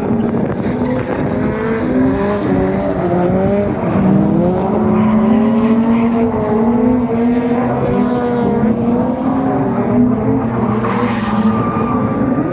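Drift car engine running hard, its pitch rising and falling as the driver works the throttle.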